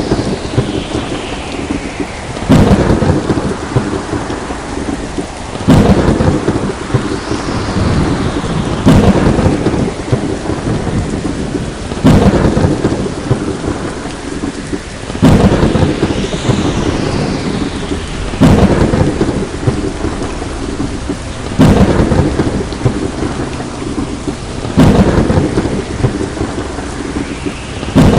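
Steady heavy rain with thunderclaps that strike sharply and rumble away. The claps repeat at even spacing, about every three seconds, nine times over.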